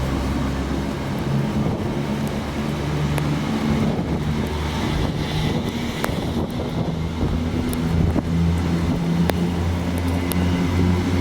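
Diesel locomotive engine running with a steady low throb whose pitch shifts a little, with a few sharp clicks.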